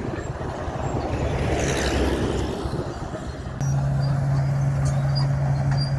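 Komatsu D61 crawler bulldozer working: its steel tracks and blade make a rough, rattling noise over the diesel engine. About three and a half seconds in, the sound changes abruptly to a louder, steady low engine drone.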